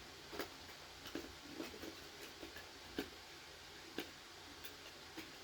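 Faint scattered clicks and taps of a plastic smoke alarm and its battery being handled while trying to fit the battery. The two sharpest clicks come about three and four seconds in.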